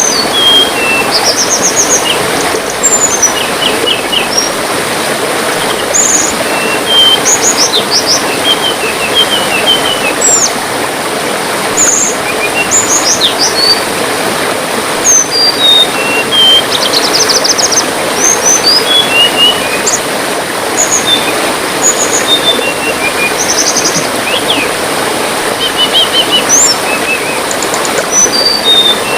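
Tledekan bird song: a rapid run of short, high chirps and quick trills, over the steady rush of trickling water.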